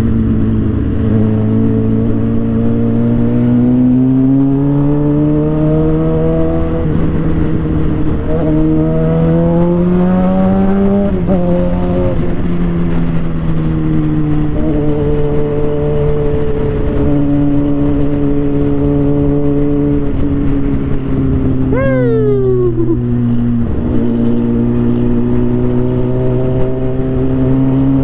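2007 Suzuki GSX-R 750's inline-four engine under way, its pitch climbing steadily for about ten seconds, dropping suddenly, then holding a steady cruise. About two-thirds through, a brief high whine falls sharply, and the engine pulls up again near the end.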